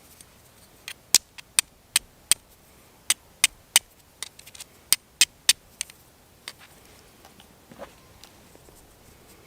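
A run of sharp, bright clicks, about a dozen in quick groups of three or four, from flint struck against a fire steel to throw sparks onto amadou tinder. A few fainter clicks follow near the end.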